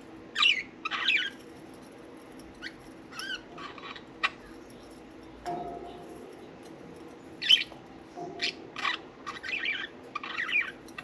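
Budgerigars chirping and warbling in short bursts, busiest in the last few seconds, with a few sharp clicks and a faint steady hum underneath.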